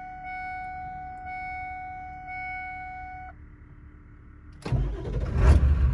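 Ford 7.3 Powerstroke diesel truck in freezing weather: a dashboard warning chime rings about once a second and stops about three seconds in. After a brief lull the cold diesel cranks, fires and runs loudly, starting near the end.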